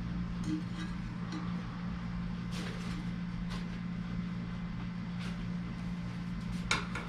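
A steady low mechanical hum, with scattered light clicks and a few sharper knocks near the end.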